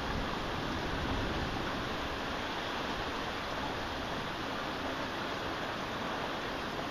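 Heavy rain falling steadily, an even wash of noise with no thunder or other distinct events.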